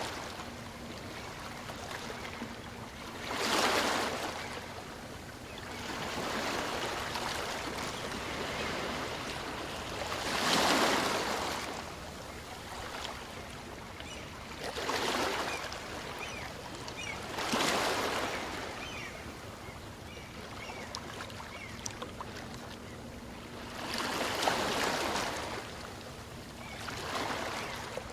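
Small waves breaking and washing up a beach, one every few seconds, on a calm sea, with a quieter hiss of water in between.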